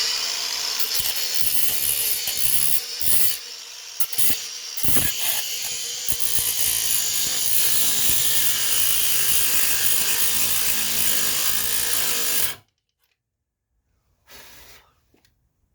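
Cordless angle grinder with a cut-off wheel cutting into metal suspension parts, its loudness wavering a few seconds in, then stopping abruptly about twelve seconds in as its battery goes dead.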